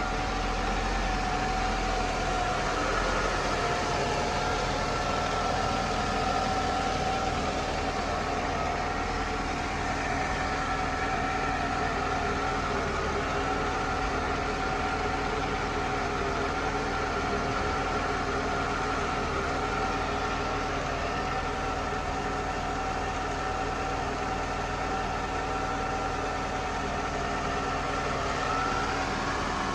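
Mercedes-Benz M104 2.8-litre straight-six (type 104.943) of an R129 280SL idling steadily.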